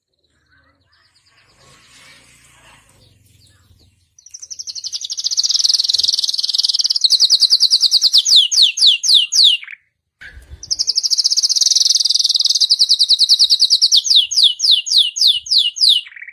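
Domestic canary singing two song phrases. Each is a fast, high trill that breaks into a run of quick notes, each sliding downward.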